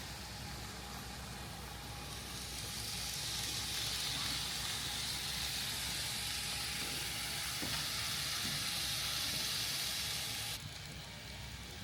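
N-scale model train running on the layout's track: a steady hiss of wheels and motor that swells about two seconds in, holds, then cuts off abruptly near the end.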